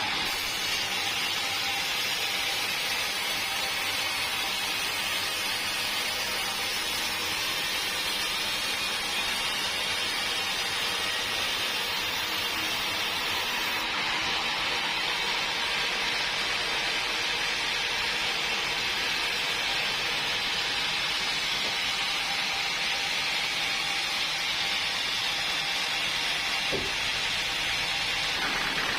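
Sawmill machinery running steadily: a constant hissing machine noise with no speech, and a single brief knock near the end.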